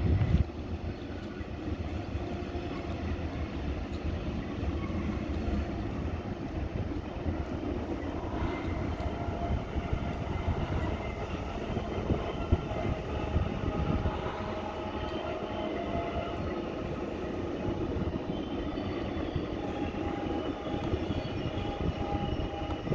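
Train passing: a steady rumble of its wheels on the rails, with thin, high wheel squeal creeping in partway through and growing stronger near the end.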